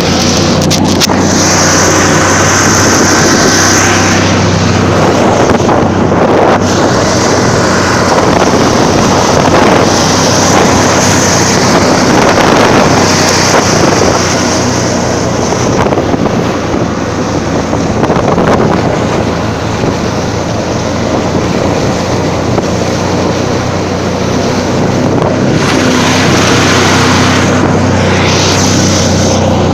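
Buran snowmobile engine running hard at speed, a steady loud drone with wind buffeting the microphone; it eases off a little past the middle, then picks up again.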